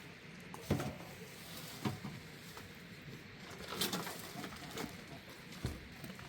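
Pigeons cooing, with four sharp knocks or taps among them.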